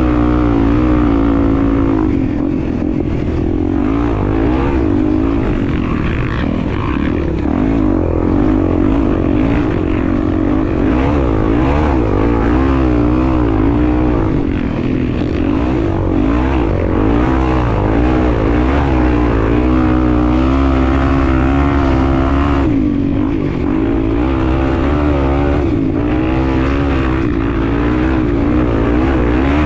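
Honda XR250 Tornado's single-cylinder four-stroke engine running while riding, its pitch rising and falling again and again as the throttle is worked.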